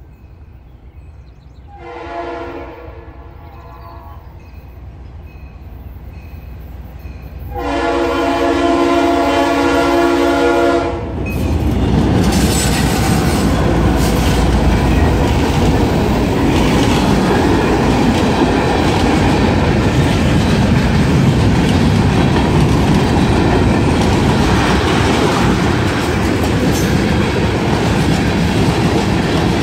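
Freight train approaching and passing close by. The diesel locomotive's air horn sounds a short blast about two seconds in and a longer, louder blast around eight seconds in. The Norfolk Southern locomotives then go by with a loud rumble, followed by freight cars rolling past with steady wheel clatter over the rail joints.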